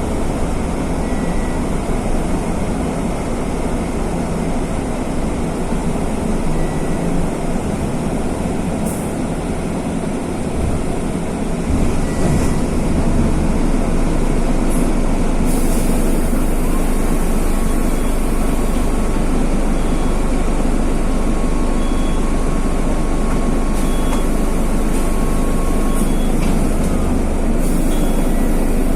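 Mercedes-Benz OF-1519 city bus's OM-924 LA four-cylinder turbodiesel running as the bus drives, getting louder about twelve seconds in as it pulls harder. A thin steady whistle sounds for several seconds in the second half.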